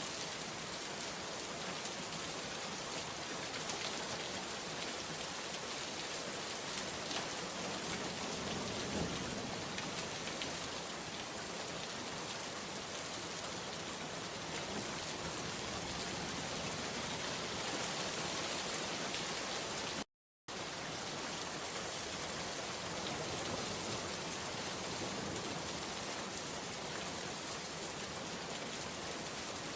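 Steady rain falling on surfaces, an even dense hiss flecked with small drop ticks. The sound cuts out completely for about half a second roughly two-thirds of the way through, then resumes unchanged.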